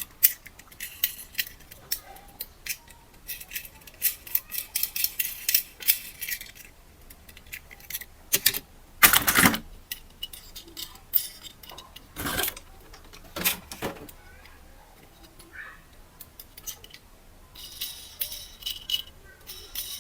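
Small hard objects clicking and rattling irregularly, with a few louder knocks about nine, twelve and thirteen seconds in.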